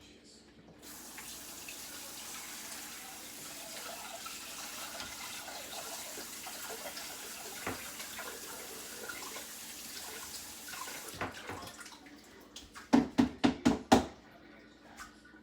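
Water from a pot of boiled potatoes pouring into the sink as they are drained, a steady rush for about ten seconds. Several sharp clunks follow near the end.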